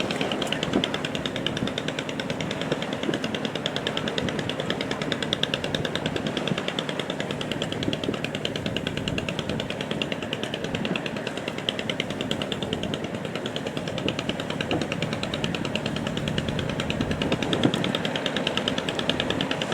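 A fishing boat's engine running with a steady, rapid, even knocking clatter that never pauses.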